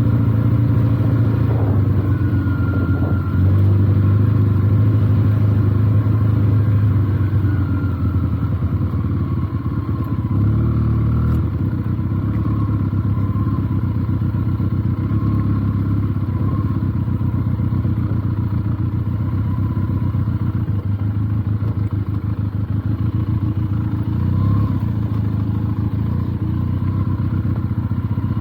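Benelli TNT 300's parallel-twin engine running at low, fairly steady revs while the bike is ridden slowly over a slippery dirt track.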